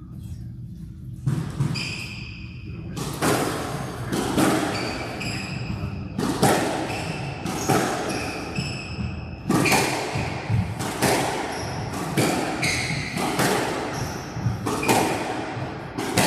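Squash rally: the ball cracking off rackets and the court walls about once a second, with shoes squeaking on the court floor between shots. It starts about a second in.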